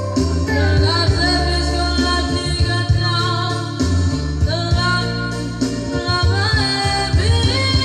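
A solo voice singing a slow melody with vibrato over keyboard accompaniment with a steady bass.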